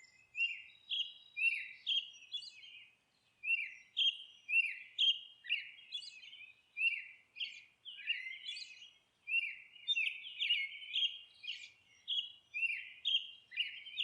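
Birds chirping: a steady run of short, high calls, each a quick downward sweep, about two a second, with brief pauses between runs.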